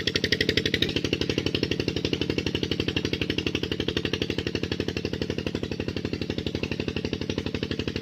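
Tube well pump engine running steadily, a rapid, even chugging of about a dozen beats a second.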